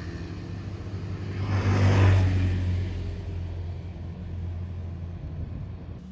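A passing motor vehicle: a low engine hum that swells to its loudest about two seconds in, then fades and dies away near the end.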